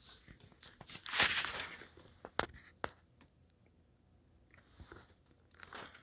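Handling noises: a rustling scrape about a second in, two sharp clicks shortly after, and fainter rustles near the end.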